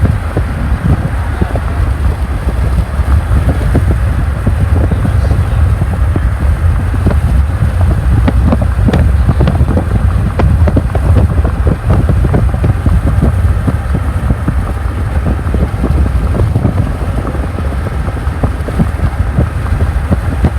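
A car driving, with steady road rumble and wind buffeting the microphone, broken by many short crackles.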